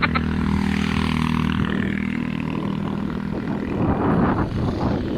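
A motor vehicle's engine running at a steady pitch close by for the first three and a half seconds or so, then fading into rough wind and road noise.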